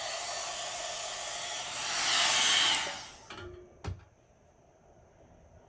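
Foxybae hot-air blow dryer brush running with a steady airy whir. It grows louder about two seconds in, then winds down and stops about three seconds in. A single sharp click follows, typical of the tool being switched off or set down.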